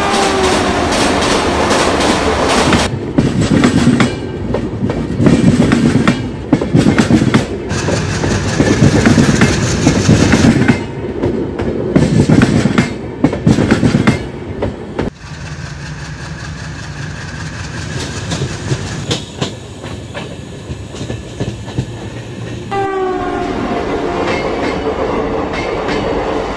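Train horn sounding and falling in pitch at the start, then wheels clattering rhythmically over rail joints, loud for the first half and quieter later, with the horn sounding again, falling in pitch, near the end.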